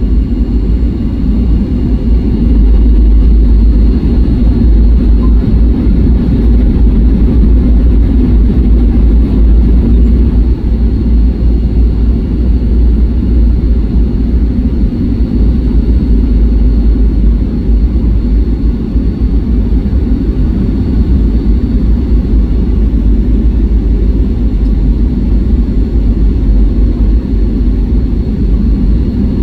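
Steady, loud low drone inside an airliner cabin: jet engine and airflow noise while in flight.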